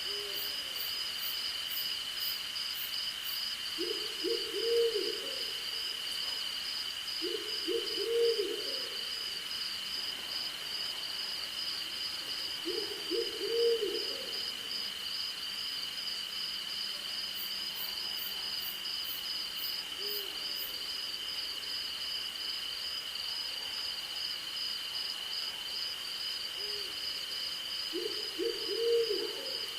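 An owl hooting in four short runs of several quick low notes, about every four to five seconds early on and again near the end. Underneath, crickets and other night insects keep up a steady high trilling.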